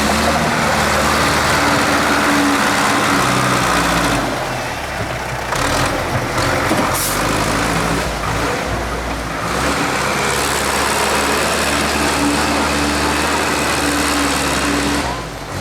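Tractor engine running loudly, its pitch rising and falling several times as it revs up and eases off.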